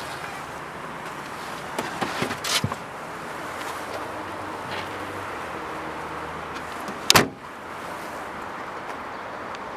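A car door on a 1999 Volkswagen Passat B5 is shut with one sharp, loud slam about seven seconds in, after a few lighter clicks and knocks around two seconds in.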